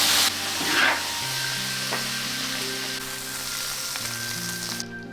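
Meat and sour pickled chilies stir-frying in hot oil: a steady loud sizzle with a few knocks of the stirring utensil, cutting off suddenly near the end. Soft background music plays underneath.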